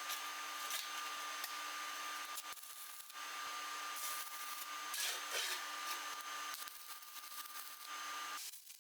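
Stick (shielded metal arc) welding on a GZ GUOZHI MIG-125T 100 V welder with Kobelco Zeroad 44 2.0 mm electrodes: a steady crackling, sizzling arc with a faint inverter whine. All of it cuts off abruptly near the end as the arc is broken.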